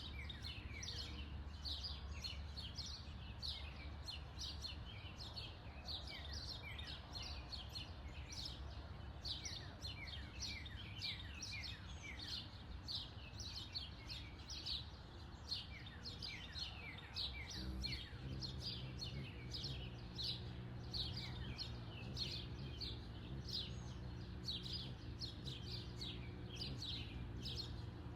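Small birds chirping: a steady run of quick, short, high downward-sliding chirps, several a second, over a low steady hum.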